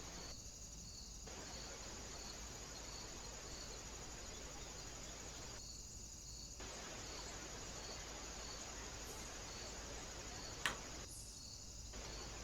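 Faint, steady high-pitched insect trill over background hiss, with one sharp click about ten and a half seconds in.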